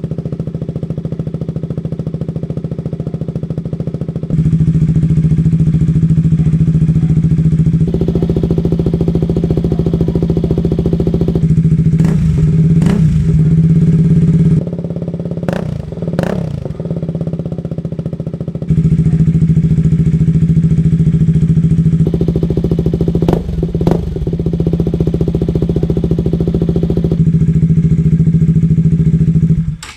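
KTM RC single-cylinder motorcycle engine running through an R9 aftermarket exhaust, with a steady exhaust note, a few quick throttle blips near the middle and again later on, and sudden jumps in loudness between segments.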